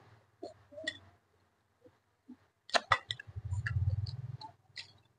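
Close-up mukbang eating sounds: a person chewing stir-fried vegetables and rice, with small wet mouth clicks. A few sharp clicks come near three seconds in as chopsticks pick rice from a glass bowl, followed by a low hum for about a second.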